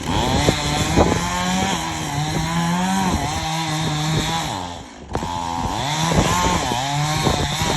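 Chainsaw running under load, its engine pitch rising and falling as it cuts into a beetle-killed tree. The sound drops out briefly about five seconds in.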